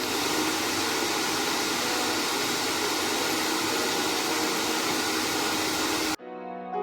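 Sirius hair dryer running steadily, a constant rush of air with a faint motor hum, which cuts off abruptly about six seconds in. Soft piano music starts right after.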